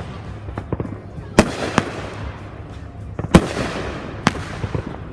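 Fireworks going off: four sharp bangs, the loudest about a second and a half in and again just past three seconds, each followed by a trailing crackle.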